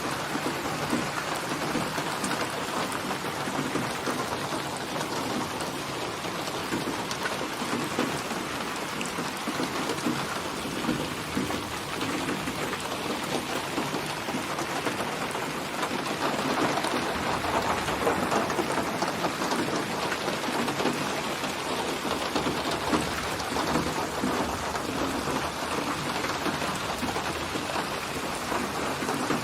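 Steady rain falling, with a low swell of thunder a little past the middle.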